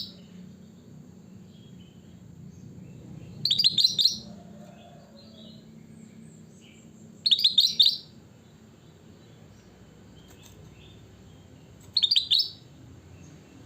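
A kutilang batik, a bulbul, calling in three short, quick chirping phrases of fast high notes, about four seconds apart, over a faint steady low hum.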